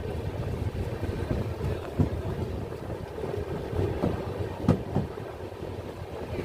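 Vaigai Superfast Express passenger train running: a steady low rumble, with a sharp knock about two seconds in and another near five seconds.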